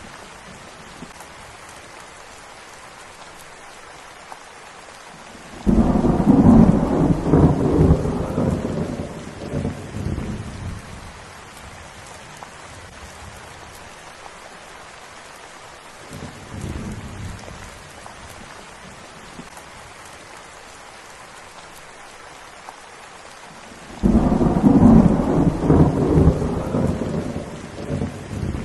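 Steady rain with thunder: two loud rolls of thunder that start suddenly and fade over a few seconds, one early and one near the end, and a fainter rumble midway.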